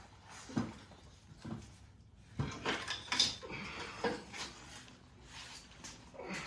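Irregular metal clunks, knocks and scraping as a motorcycle engine is worked loose and shifted out of its frame, with a busier clatter about two and a half seconds in.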